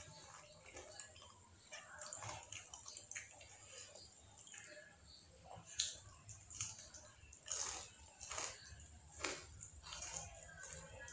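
Close-miked eating sounds: chewing with irregular wet mouth clicks and smacks, a few louder ones in the second half.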